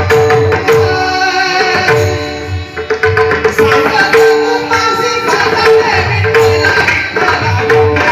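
Male devotional singing accompanied by pakhawaj. The drum keeps a steady rhythm of low bass strokes and ringing pitched strokes, with a brief drop in loudness about two seconds in.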